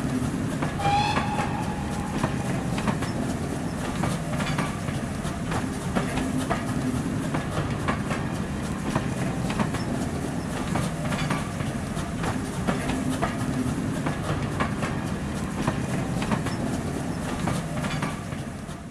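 Train coaches running past: a steady rumble with wheels clicking over rail joints at uneven intervals, and a brief high squeal about a second in.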